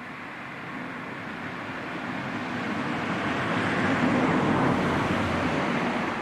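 A motor vehicle driving past on the road, its engine and tyre noise building to a peak about four seconds in and then easing slightly.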